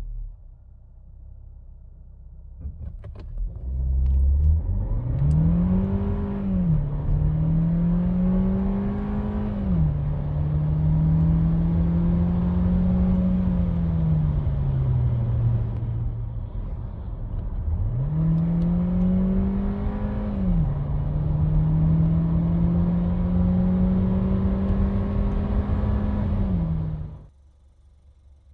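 Skoda Karoq 1.5 TSI four-cylinder turbo petrol engine under hard acceleration in two runs. In each run the engine note climbs and then drops sharply at DSG upshifts, several times in all. Between the runs the note eases off, and the sound cuts off suddenly near the end.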